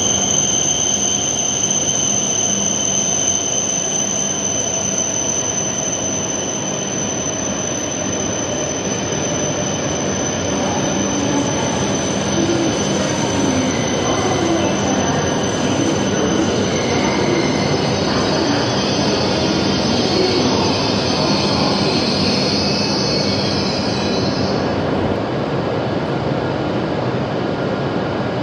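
E7/W7-series Shinkansen pulling into an underground station platform and slowing to a stop: a steady rumble of cars and wheels, with a high steady whine that fades out about halfway. A higher squeal rises for a few seconds and cuts off as the train comes to a halt.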